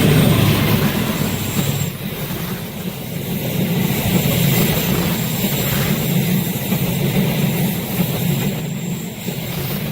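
A train passing at speed, with a steady low rumble and wheel-on-rail noise that eases off near the end.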